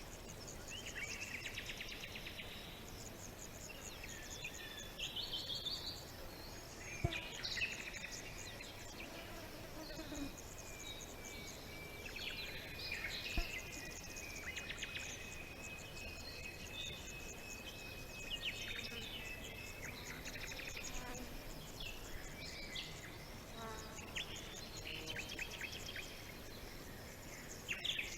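Many small songbirds chirping and trilling, their calls short, rapid and overlapping. A long steady high buzz, most likely an insect, runs through the middle.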